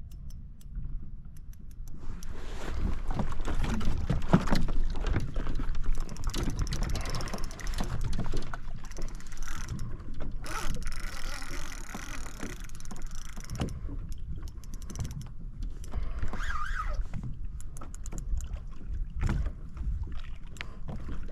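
Penn Clash 4000 spinning reel being worked against a heavy fish: gear noise and clicking, with knocks and handling noise on the kayak. It starts about two seconds in.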